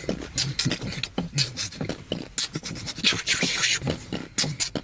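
Beatboxing: a rapid, uneven run of mouth-made drum sounds, with low kick-drum thumps and hissing hi-hat and snare sounds.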